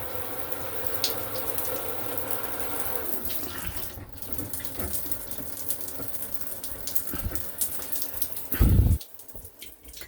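Water running steadily from a Delta shower valve. About nine seconds in there is a loud low thump, and after it the water is much quieter.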